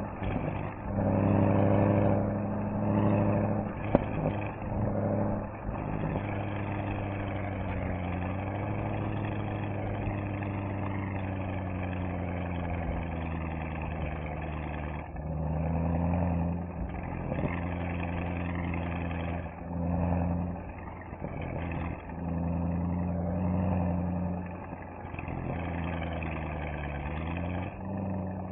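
Mercedes-AMG SL63's V8 engine and exhaust heard while driving, running steadily under load. It swells louder several times, with short drops and a few slides in pitch as the throttle and gears change.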